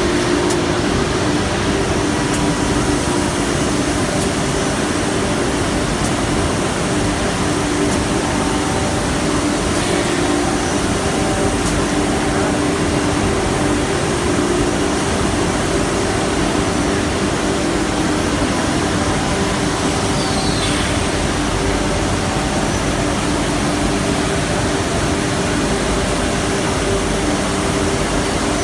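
CNC nesting router running: a loud, steady whir with a constant hum.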